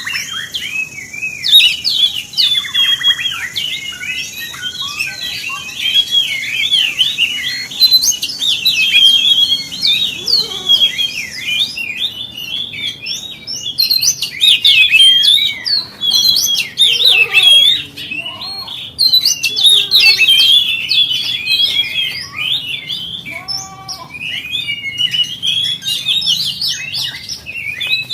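Oriental magpie-robin (kacer) singing a long, fast, varied song of sharp chirps and whistled phrases with only brief pauses, over a steady high hiss that stops a little under halfway through.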